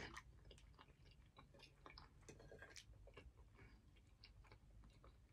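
Faint close-up chewing of food with the mouth closed: soft, irregular small clicks.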